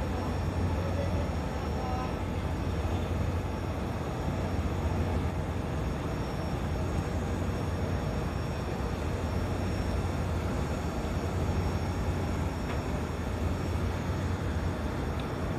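An engine running steadily on a test run, with a constant low hum and no change in speed.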